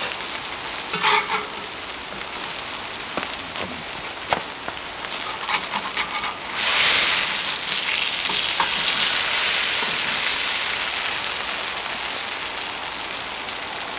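Grated pumpkin pancakes sizzling in oil on a hot cast-iron cauldron lid, with clicks and scrapes of a metal turner and wooden spatula on the iron. About six and a half seconds in the sizzle jumps suddenly much louder as a pool of fresh oil spits in the hot centre of the lid, then slowly eases.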